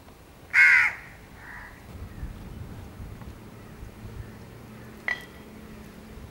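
A bird's harsh caw: one loud call about half a second in and a fainter one about a second later. A short sharp click comes near the end.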